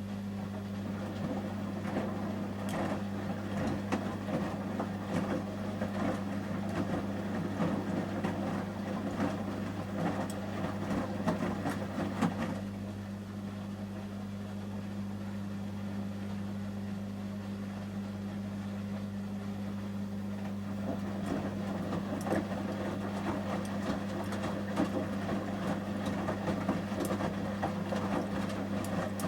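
Samsung Series 5+ front-loading washing machine in the heating stage of a 30 °C shirts wash: the drum tumbles the load with a sloshing, clattering sound over a steady low hum. It pauses about twelve seconds in, then turns again about eight seconds later.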